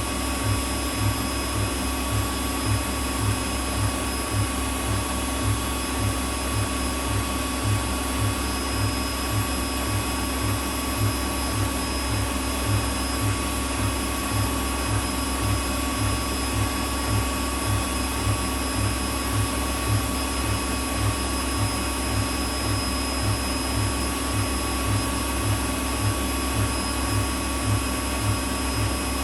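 Whirlpool WWDC 7440 washing machine spinning at its full 1,400 rpm, quite loud: a steady whir and hum with a regular low throb.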